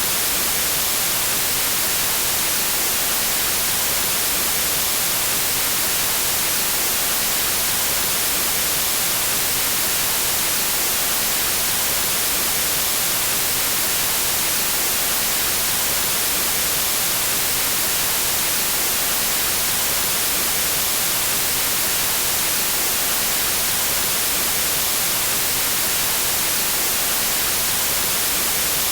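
Steady white noise: an even, unbroken hiss across the whole range of pitch, strongest in the highs.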